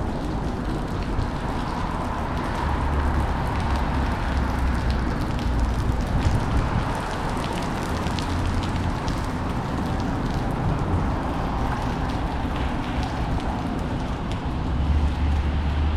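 Wind buffeting the microphone, with a low rumble that swells about three seconds in and again near the end, over steady outdoor street noise.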